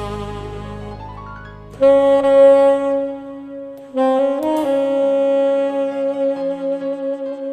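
Cannonball tenor saxophone playing a slow ballad melody over an accompaniment track. One note enters just under two seconds in, and a long note from about four seconds in is held with vibrato.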